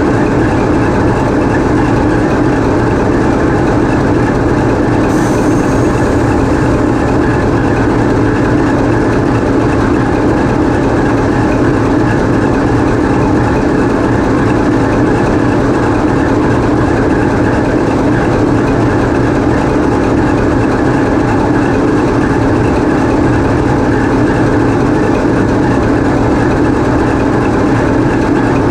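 The 16-cylinder 2A-5D49 diesel engine of a TEP70 passenger diesel locomotive running steadily, heard from inside the engine room as a loud, even drone.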